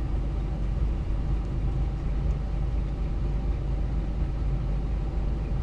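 Scania R420 truck's inline-six diesel engine running steadily, a low, even rumble with no change in revs.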